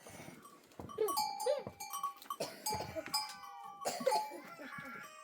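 A herd of goats and sheep with bells on their necks: the bells clank and ring again and again while the animals bleat now and then.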